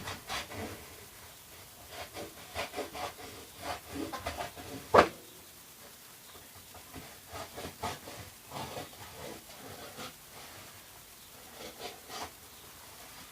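A plastic container being cut by hand: irregular short scraping, crunching strokes, with one loud sharp crack of the plastic about five seconds in and sparser strokes after it.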